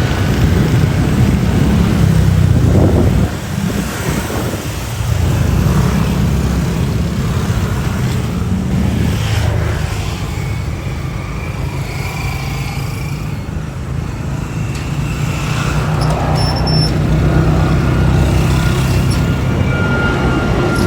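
Airliner jet engines rumbling on departure, a loud, steady low roar that falls off and builds again, with a thin high whine near the end.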